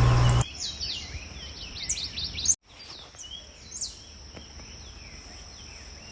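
Birds chirping in the background, many short rising and falling calls, over a steady high-pitched tone; the sound drops out for an instant about two and a half seconds in.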